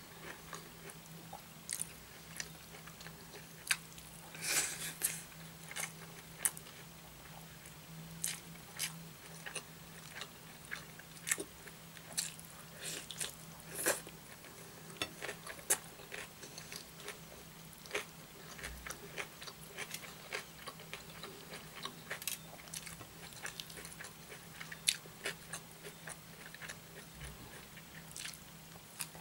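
Close-miked chewing with wet smacking and irregular clicking mouth sounds, as rice and curry are eaten by hand.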